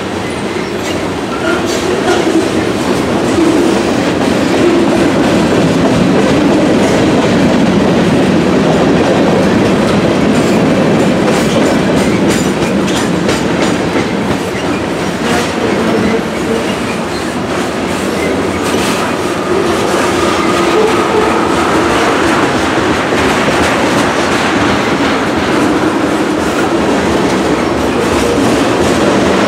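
A train rolling past at close range: a steady rumble of wheels on rails, with repeated clicks as the wheels pass over the track.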